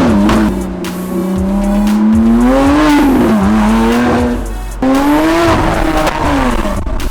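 Car engine revving up and easing off repeatedly while driving. The sound breaks off abruptly about five seconds in and picks up again.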